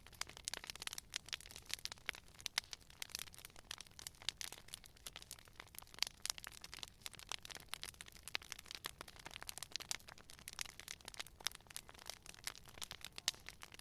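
Campfire crackling: burning wood giving off a steady, irregular run of small snaps, with a sharper pop every second or two.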